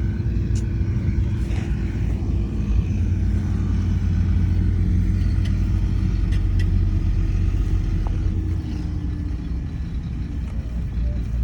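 Heavy diesel earthmoving machine running steadily, a low drone with a faint held whine above it and a few light clicks.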